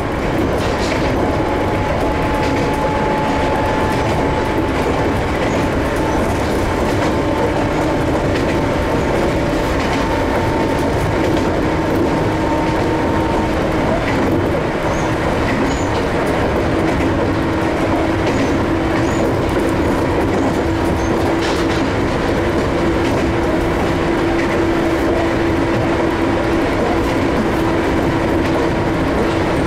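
Ohmi Railway 800 series electric train running between stations, heard from inside the car: steady running noise with a faint steady whine and occasional clicks of the wheels over rail joints.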